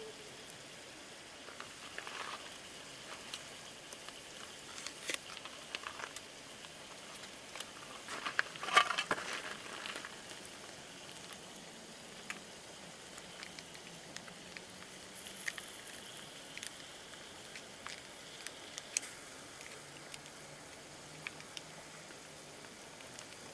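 Campfire crackling, with scattered sharp pops and a louder flurry of crackles about nine seconds in.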